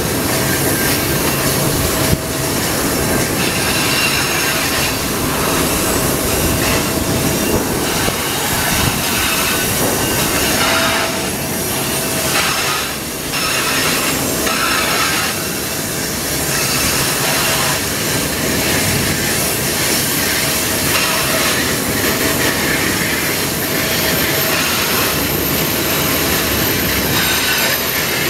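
Freight train of tank wagons rolling past close by on a curve: a loud, steady rumble and clatter of steel wheels on the rails, with wheel squeal coming and going.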